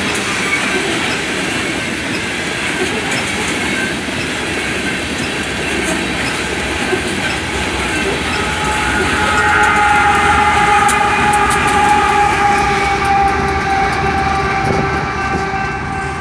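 Loaded coal train's hopper cars rolling past at close range, a steady rumble and clatter of wheels on rail. From about halfway through, a multi-tone locomotive horn chord sounds and is held for several seconds, swelling in loudness.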